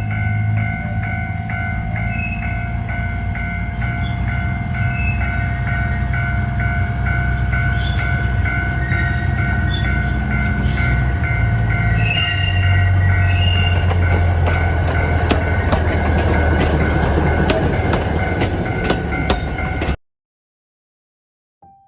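Alishan Forest Railway train running on the rails: a steady low rumble with steady high tones over it and a regular train of short clicks. It cuts off abruptly about 20 seconds in.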